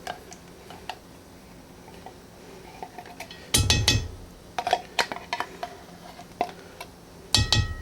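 A metal spoon scraping and clinking in tin cans as condensed cream of mushroom soup is dug out into a cast-iron Dutch oven. There are two heavier clanks with a brief metallic ring, about three and a half seconds in and again near the end.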